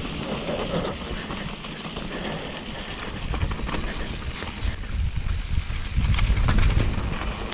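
Mountain bike clattering and rattling over a rocky stretch of wet trail, with a rough rumble that grows heavier about three seconds in and is loudest around six seconds.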